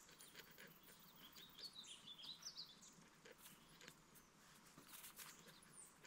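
Near silence of forest ambience, with a bird chirping faintly in a quick high series about one and a half to three seconds in.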